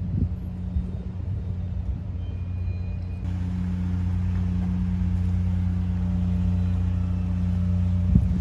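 A steady low engine hum that gets louder a little after three seconds in.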